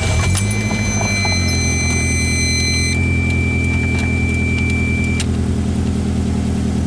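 A Toyota MR2's four-cylinder engine catches after being started. Its revs rise briefly and then settle into a steady idle. A high, steady electronic tone sounds over it for the first few seconds.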